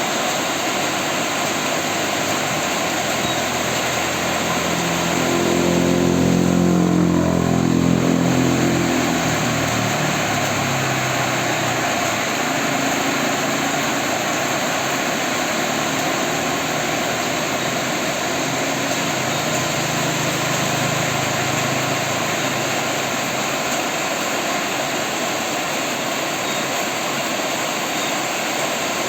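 Steady rain falling. An engine passes, rising to its loudest about six to eight seconds in and fading out, and a fainter engine hum comes and goes around the middle.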